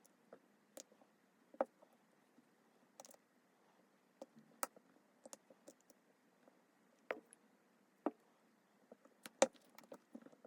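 Faint, irregular clicks and taps of a blade working under a smartphone's glued back glass panel, prying it loose as the adhesive softens.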